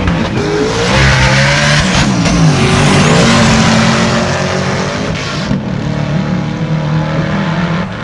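Two Corvettes, one of them twin-turbocharged, running hard down a drag strip. The engine pitch climbs and drops back several times as they shift gears, and the sound fades about two-thirds of the way through as the cars pull away.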